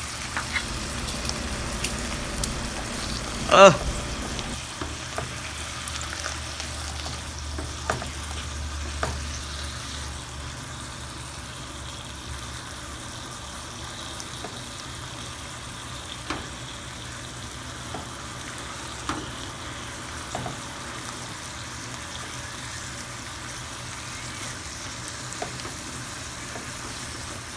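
Salmon fillets sizzling steadily in a hot pan as they sear, with scattered small pops and crackles of spattering fat.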